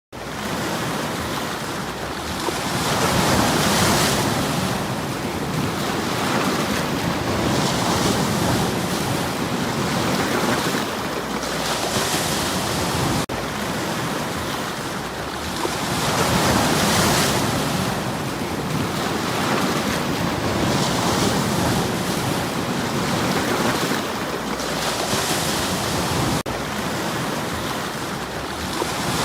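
Sea waves washing in over stones on the shore: a continuous rushing hiss that swells and eases with each wave, roughly every four seconds.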